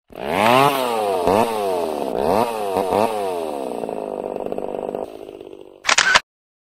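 Motorbike engine sound effect revving up and shifting: the pitch climbs and drops several times, then holds steady and fades. A short, loud rush of noise comes near the end, and then the sound cuts off.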